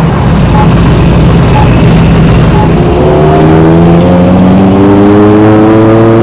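Car engine running loudly, then accelerating, its pitch rising steadily from about halfway through.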